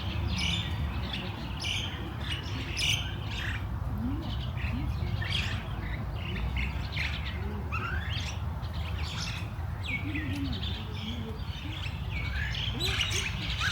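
Many small birds chirping, with short overlapping calls and quick sweeps all through, over a steady low rumble.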